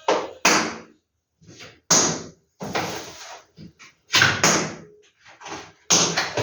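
Posters and their packaging being handled: a string of short, sharp rustles and knocks with brief pauses between them.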